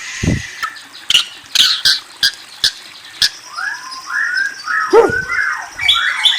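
A songbird calling: sharp clicks through the first half, then from about three and a half seconds in a run of quick rising and falling whistled notes with a high trill above them. A low thud sounds near the start and again about five seconds in.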